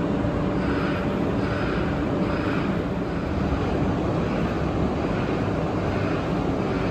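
Train running at the station: a steady low rumble with a faint higher pulse repeating about every three-quarters of a second.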